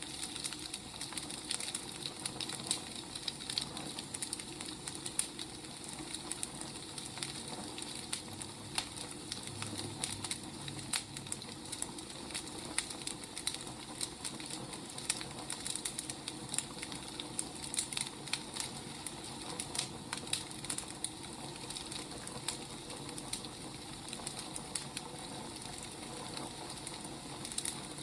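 Firewood burning: a steady soft hiss with irregular crackles and pops.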